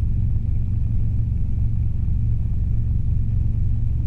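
Robinson R22 helicopter in flight, its engine and rotors making a steady low drone with a fast flutter, as heard inside the cabin.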